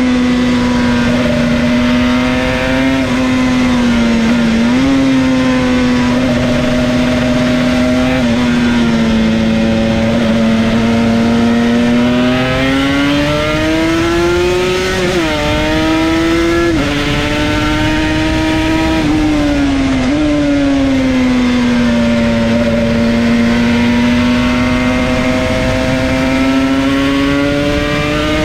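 Yamaha TZR250 1KT's two-stroke parallel-twin engine running at high revs, heard from on board the bike. Its pitch climbs and drops with throttle and jumps several times at gear changes, over a steady rush of wind.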